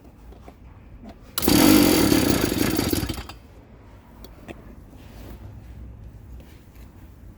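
Small 49cc two-stroke pocket bike engine bursts into a loud, buzzing run about a second and a half in. It runs for about two seconds, then dies away.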